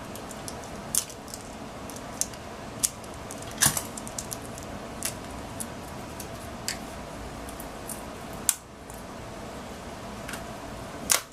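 Hands picking and peeling packing tape off an RC truck's battery: scattered sharp clicks and crinkles, about a dozen, over a steady background hum.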